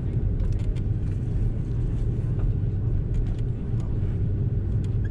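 Airbus A330-343 cabin noise while taxiing: a steady low rumble from the idling Rolls-Royce Trent 700 engines and the rolling gear, with scattered faint clicks and rattles from the cabin.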